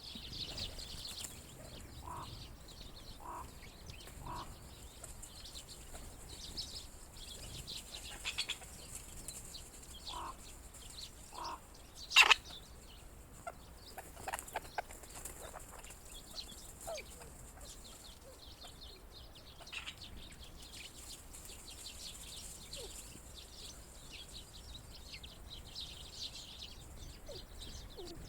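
Grey partridges in a flock giving short soft clucking calls now and then, with small birds chirping over them. One loud sharp sound stands out about halfway through.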